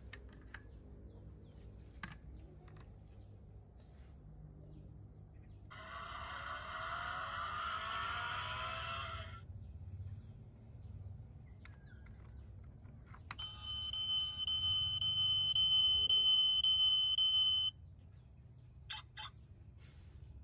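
Built-in sound module of a 1:32 diecast Ford F-150 Raptor toy playing through its tiny speaker. About six seconds in there is a noisy sound effect lasting roughly three seconds. After a pause comes a steady, high electronic tone lasting about four seconds that cuts off suddenly, with a few faint clicks around it.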